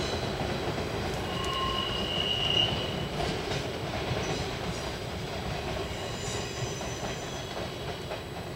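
Electric multiple-unit train pulling away over station points and curves, its wheels running on the rails with a short high-pitched wheel squeal about a second and a half in and fainter squeals around six seconds. The rolling noise fades gradually as the train moves off.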